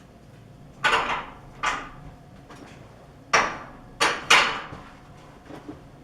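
A handful of sharp knocks, like hard objects striking metal in a workshop: two about a second in, then three close together past the middle, and a couple of faint taps near the end.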